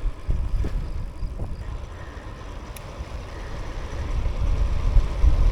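Low rumble of a train, growing louder over the last couple of seconds.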